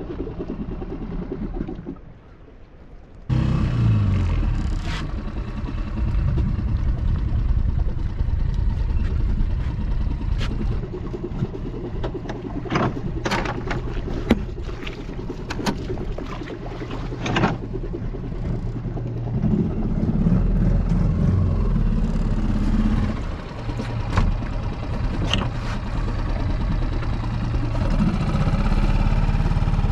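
Small boat's outboard motor running steadily underway, with water and wind noise and scattered knocks. The motor comes in suddenly about three seconds in.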